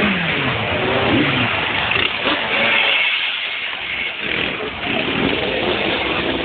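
Motorcycle engines revving and passing by, their pitch gliding down and up several times over a continuous noisy background.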